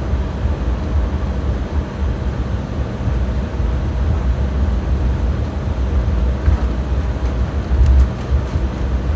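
Steady low rumble and hum inside an airliner cabin, with a couple of faint clicks about eight seconds in.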